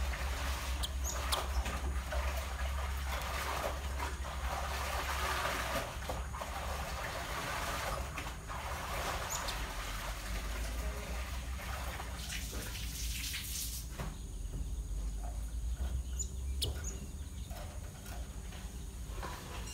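A few short, high bird chirps over a steady rushing, water-like noise and a low hum; the rushing dies down about two-thirds of the way through.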